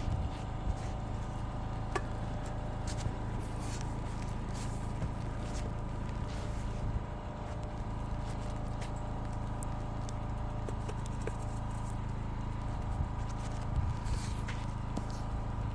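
An engine running steadily, with scattered clicks, knocks and scrapes over it.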